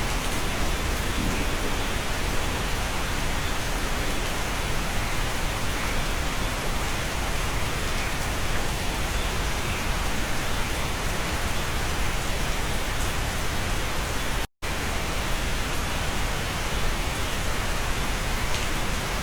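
Steady rain heard from inside a cabin: an even hiss with a low rumble beneath it. It cuts out for a split second about three-quarters of the way through.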